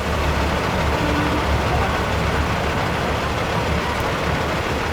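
Diesel engines of Peterbilt semi trucks running steadily at low speed, with a deep, even engine sound and background crowd chatter.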